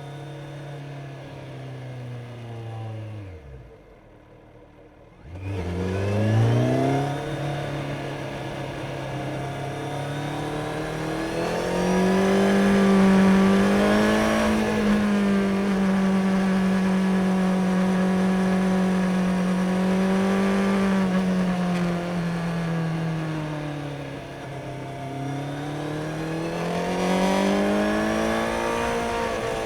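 Kawasaki Z900's inline-four engine under way: the revs fall away and the sound almost drops out about four seconds in, then the engine pulls hard with rising revs. It holds a fairly steady note through the middle, eases off briefly near the end and picks up again.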